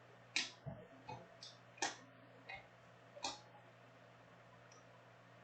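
Chrome trading cards being handled and flipped through: a handful of short, crisp flicks and clicks in the first three seconds or so, faint, then stillness.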